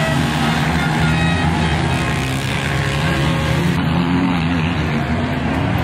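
Dirt bike engines running on a motocross track, their pitch rising and falling as the riders work the throttle.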